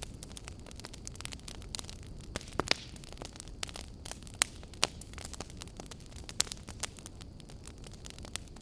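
Wood fire burning and crackling, with irregular sharp pops over a steady low rumble and hiss.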